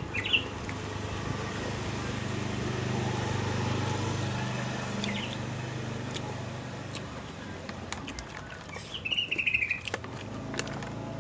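A bird chirping: a short high trill near the start and a longer run of quick chirps about nine seconds in. Under it, a low hum swells and then fades away.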